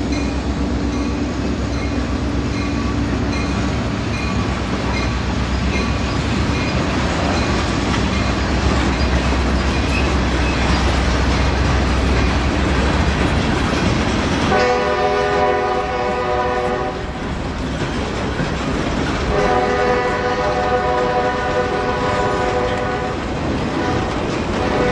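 A Norfolk Southern GP40-2 diesel locomotive (an EMD 16-cylinder two-stroke) rumbles past with its road slug. Its freight cars follow, wheels clacking over the rail joints. About halfway through, the GP40-2's multi-note chime horn sounds two long blasts, the second longer than the first.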